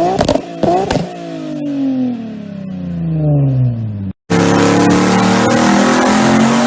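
Car engine revved in quick, sharp blips, then the revs fall away in a long descending pitch over about three seconds. After an abrupt cut about four seconds in, a car engine runs loud and nearly steady, with heavy noise over its tone.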